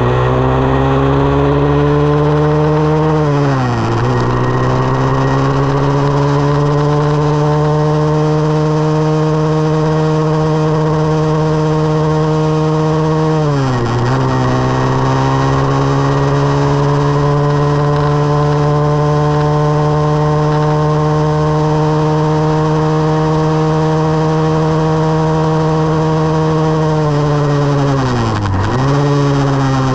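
2020 SSR 189 dirt bike's single-cylinder four-stroke engine running under way at steady revs. Three times, about 4 seconds in, about 14 seconds in and near the end, the revs drop sharply and climb back.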